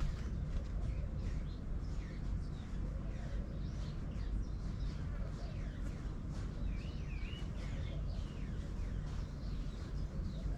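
Several birds chirping and calling over one another, with short rising and falling notes and a wavering warble about seven seconds in, over a steady low rumble.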